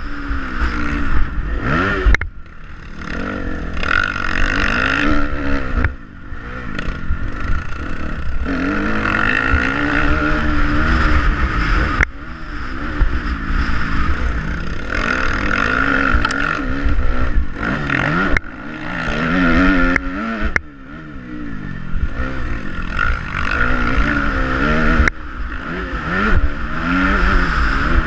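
Motocross dirt bike engine revving, its pitch rising and falling again and again as the throttle opens and closes, over a strong low rumble. The sound breaks off and changes abruptly several times.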